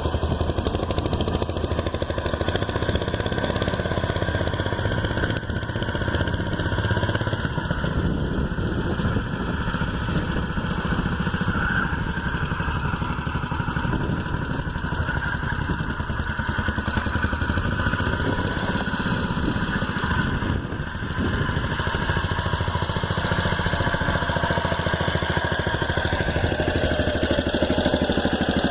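Small engine of a homemade mini tractor running steadily while ploughing, with one brief drop in level about two-thirds of the way through.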